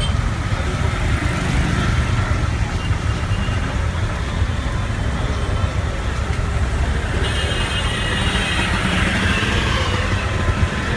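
Steady road traffic noise of vehicles running past, with a low rumble throughout and a brief high-pitched tone about seven seconds in.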